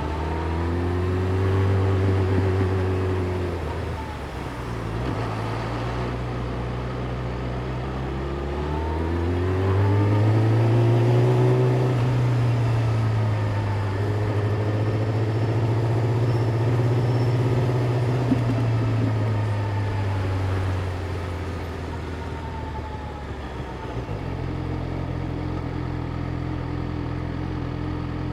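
Yamaha YZF-R6's inline-four engine running at low, even revs in city traffic. It rises a little in pitch about ten seconds in, holds, and eases back down after about twenty seconds.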